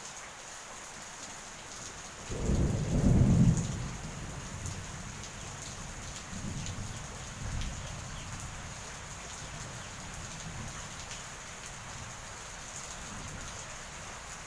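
Steady rain with a clap of thunder about two seconds in, a loud low rumble lasting over a second, then fainter rolling rumbles that die away.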